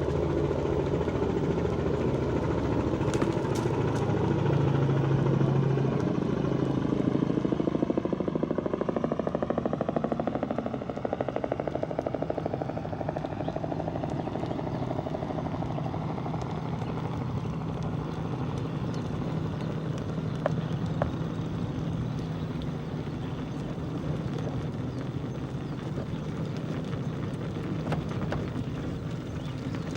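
A motor vehicle passes close by, its engine loudest a few seconds in, then falling in pitch and fading as it moves away. After that a steadier low background rumble remains, with a few brief clicks.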